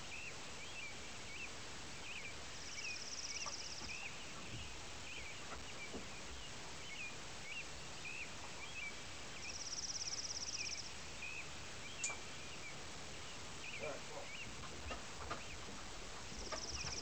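Birds chirping over steady outdoor background noise. A high trill about a second long comes three times, roughly every seven seconds, and there is a single sharp click about twelve seconds in.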